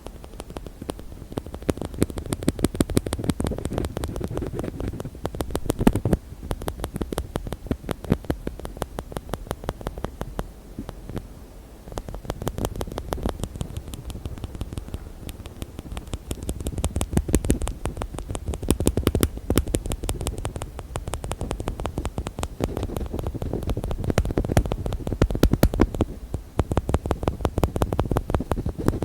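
Fast, continuous hand tapping, many light taps a second, on objects such as container lids, with brief lulls about twelve seconds in and again near the end.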